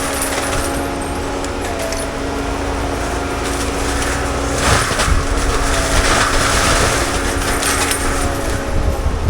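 Forestry mulcher on a CAT 299D3 XE compact track loader running steadily: the diesel engine and the spinning Fecon Blackhawk mulcher head hum, with bursts of crunching and clattering debris about halfway through as the drum chews into brush.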